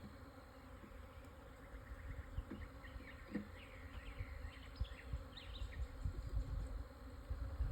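Honeybees buzzing around an open nucleus hive, a faint steady hum.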